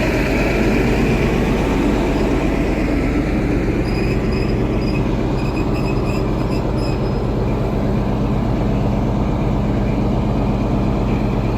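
Diesel engine of a Class 43 HST power car running steadily at close range, a constant low drone.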